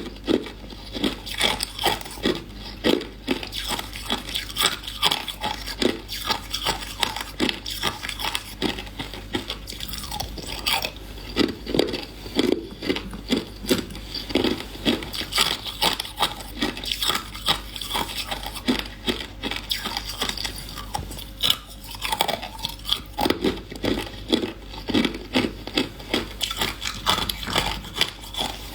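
Someone chewing hard ice, close up: repeated loud crunches, about two or three a second in runs, with crackling as the ice breaks between the teeth.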